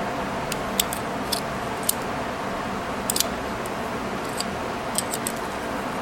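Light, irregular clicks and ticks of a small metal office staple remover being handled and worked, over a steady background hum.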